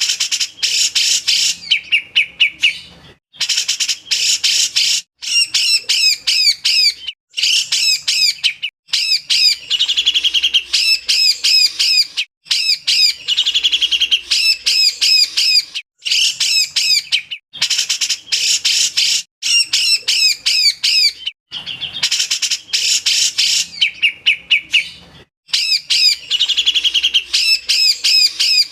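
Grey-cheeked bulbul (cucak jenggot) singing in 'besetan': fast chattering runs of repeated high notes, in bouts of a few seconds broken by short pauses.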